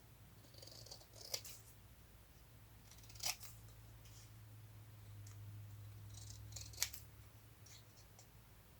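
Quiet paper-crafting sounds: brief rustles of paper being handled and three short sharp clicks, over a low steady hum.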